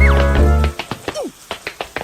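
Cartoon tap-dance routine: quick metallic clicks of bottle-cap taps at several a second over a bouncy music track. The music's bass drops out about three quarters of a second in, leaving the clicks mostly on their own, with a short falling squeak at the start.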